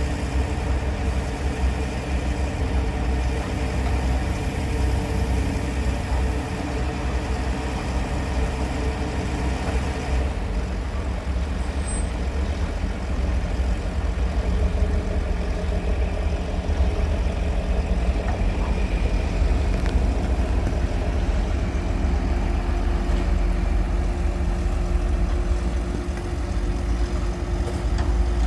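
An engine running steadily at idle: a continuous low hum with a few steady tones above it, shifting slightly about ten seconds in.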